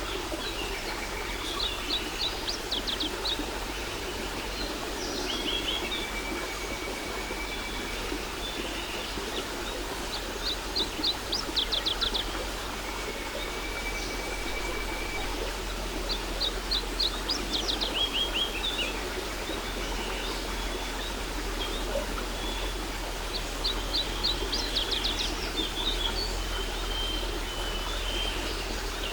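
Steady rushing of a waterfall, with songbirds singing over it: a quick trilled phrase of high chirps comes back about every six to seven seconds, and between phrases a thin, steady whistle is held for about a second.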